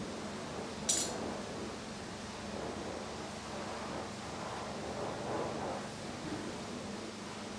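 A single short, sharp click about a second in, over a steady low hum and faint rustling of handling.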